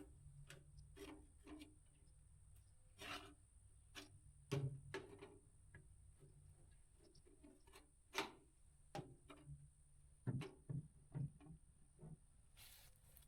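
Scattered quiet clicks and knocks of metal parts being worked by hand, a piece being pried back into place; the sharpest knocks come about 8 seconds in and again a couple of seconds later.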